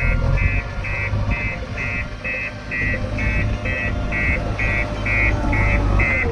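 JCB 3DX backhoe loader's reversing alarm beeping about twice a second, over the steady low running of its diesel engine.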